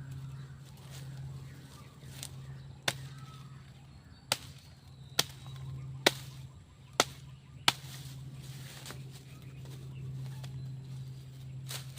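Six sharp knocks, a second or so apart, between about three and eight seconds in, over a steady low hum.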